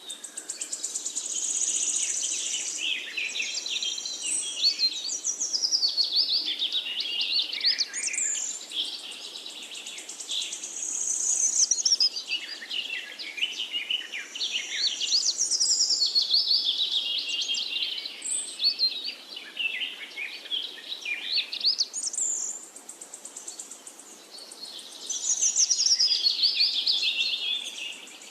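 Songbirds singing and chirping in a dense chorus of rapid high notes and sweeping trills, swelling and easing every few seconds.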